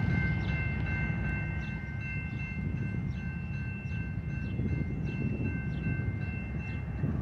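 Diesel-hauled train approaching with a steady low rumble. Over it run three steady high-pitched tones and a regular chiming about twice a second.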